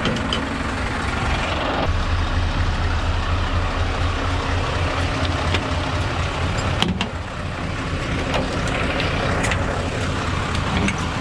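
Scania S650's V8 diesel engine idling steadily, with a few short clicks over it in the second half.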